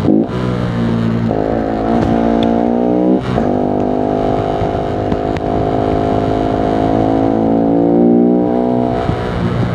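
Voge 125R's 125 cc single-cylinder four-stroke engine running under way. Its note dips briefly at the start and again about three seconds in, then holds steady and even.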